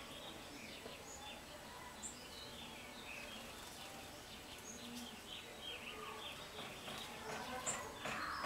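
Several small songbirds chirping and twittering, with many short quick notes and a few higher single calls overlapping. A brief crackling rustle comes near the end.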